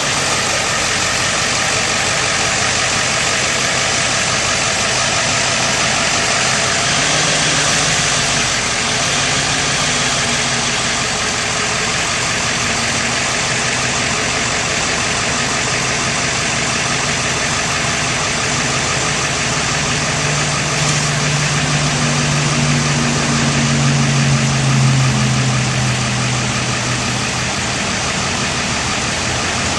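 Bucket truck's engine running steadily, with a deeper hum that strengthens about two-thirds of the way through and eases off near the end.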